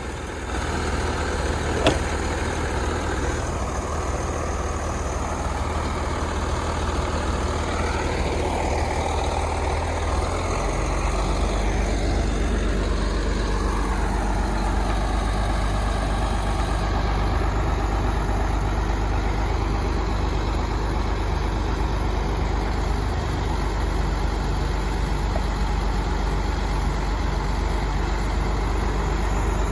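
Heavy diesel truck engine running steadily during unloading with a truck-mounted crane. About ten seconds in, the engine's note changes, shortly after a faint whine glides down in pitch.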